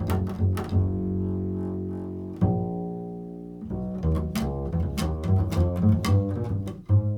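Solo improvised music on a low-pitched plucked stringed instrument: runs of quick plucked notes alternate with single low notes left to ring and fade.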